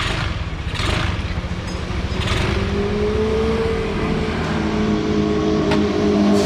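Motorbike engine running; about two seconds in its note rises a little and then holds steady.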